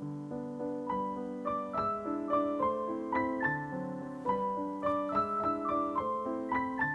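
Background piano music: a gentle melody of single notes over sustained lower notes, growing busier about a second in.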